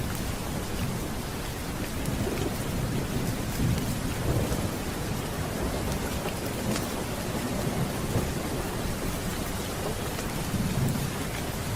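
Steady rain with low rolling thunder rumbling underneath, swelling about a third of the way in and again near the end.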